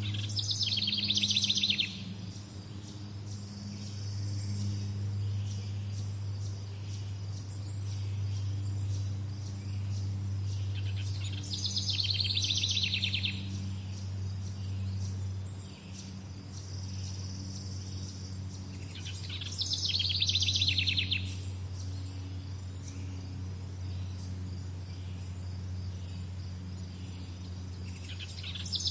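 A songbird singing the same short, fast-trilled phrase of about two seconds, four times at intervals of roughly eight to nine seconds, over a steady low hum.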